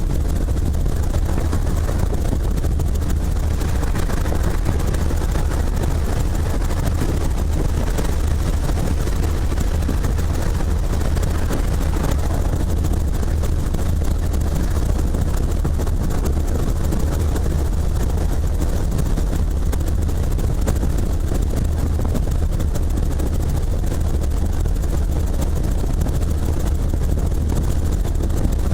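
Helicopter engine and rotor noise, loud and steady, heaviest in the deep low end.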